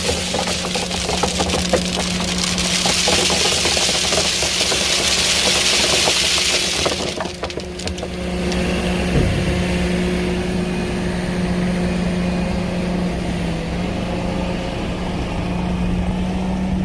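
Excavator engine running steadily at a constant speed, with a loud hiss over it for about the first seven seconds that then stops, and scattered knocks and clanks early on.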